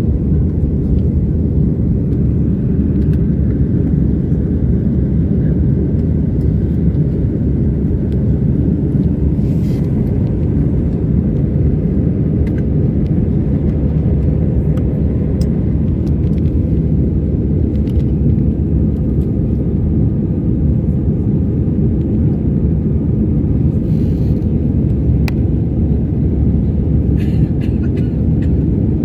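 Jet airliner cabin noise: a steady, low rumble of the engines and airflow heard from inside the passenger cabin, around takeoff and climb.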